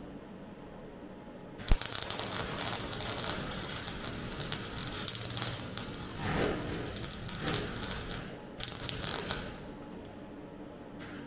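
Welding arc crackling as a repair plate is welded into a car's suspension top: a long run of about six and a half seconds that starts with a sharp click, then a second short burst of about a second.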